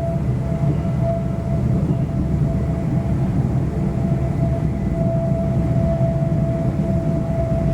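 Inside a Class 350 Desiro electric multiple unit running at speed: a steady rumble of wheels on track with a steady high whine over it.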